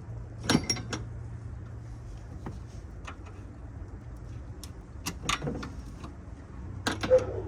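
Metal tools and loose engine parts clinking against each other in a few separate bursts, over a steady low hum.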